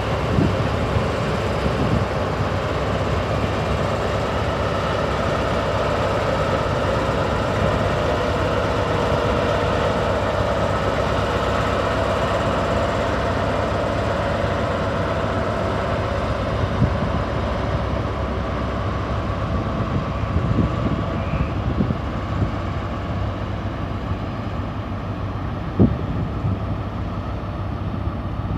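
Diesel passenger train running at a station, a steady engine and rail sound with a few sharp clicks in the second half, easing off a little near the end.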